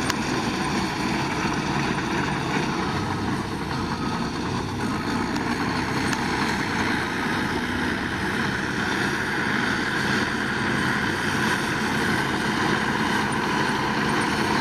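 Heavy construction machine's diesel engine running steadily, with a steady whine riding over the engine.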